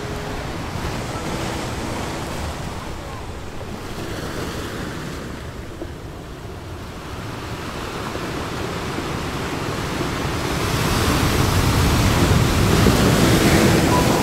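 Rushing surf-like noise, swelling louder in the second half.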